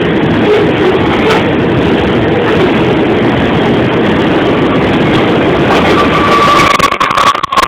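Loaded coal train rolling past: a loud, steady rumble and clatter of freight car wheels on the rails. About six seconds in, a steady high-pitched tone joins it and holds to the end.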